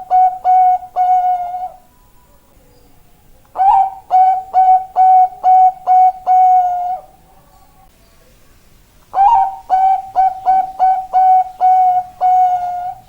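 Bangkok-type zebra dove (perkutut) singing: phrases of quick, short coos that end on a longer held note. The tail of one phrase is followed by two full phrases, with short pauses between.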